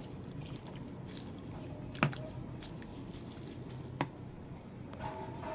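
Pot of bulanglang vegetable soup simmering on the stove, with a steady low hiss and two sharp clicks about two seconds apart.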